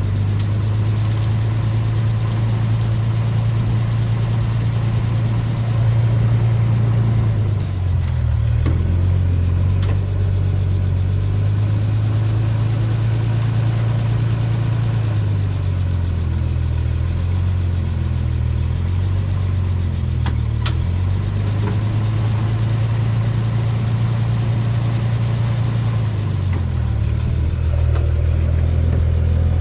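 Truck engine running steadily with a deep hum, its pitch dropping and coming back up a few times as the truck changes speed.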